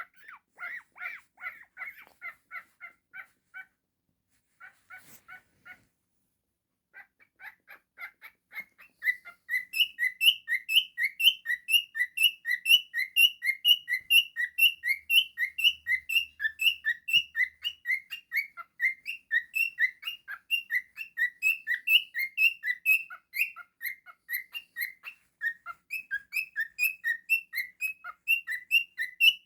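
Cockatiel chirping a fast run of short repeated notes, about three or four a second. The notes are softer with brief pauses at first, then louder and steady from about a third of the way in, alternating between two pitches.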